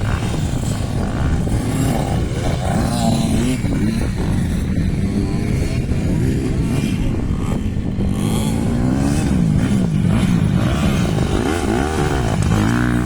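Several motocross dirt bikes racing, their engines revving up and dropping off over and over in overlapping rising and falling sweeps.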